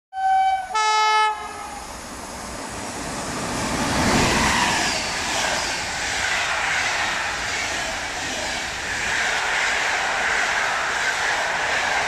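PKP Intercity passenger train sounding its horn twice, a short single-note blast and then a brief two-tone blast. The train then runs past along the platform, with rushing wheel-on-rail noise that swells to its loudest about four seconds in and keeps up as the coaches go by.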